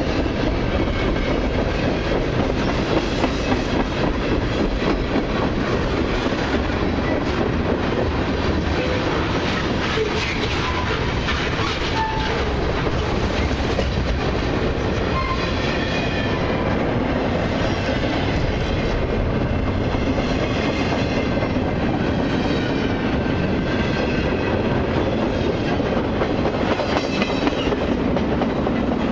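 Freight cars of a long autorack and mixed freight train rolling steadily past, with wheels clacking over rail joints. A few faint, brief wheel squeals come through near the middle.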